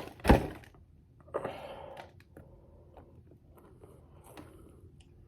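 Handling and eating noises at a table: one loud thump near the start, a short rustle about a second and a half in, then faint scattered clicks and taps as a fast-food biscuit is broken apart and eaten.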